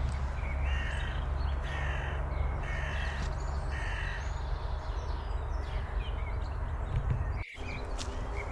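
A crow cawing four times in a row, about one caw a second, over a steady low rumble. The sound drops out briefly near the end.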